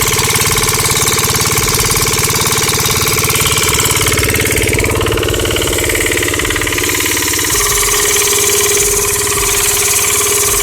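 Homemade mini diesel engine model running steadily with a fast, even rattling clatter; its tone steps down slightly about three quarters of the way through.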